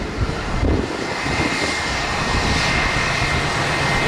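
Jet airliner's engines at takeoff power during the takeoff roll, a broad rumble growing louder, with a steady high fan whine that comes in about a second in.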